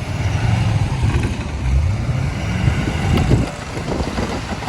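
Ford F-350 Super Duty's turbocharged engine revving hard under load as the truck works to get free of the snow. The revs rise and fall, easing off briefly about three and a half seconds in.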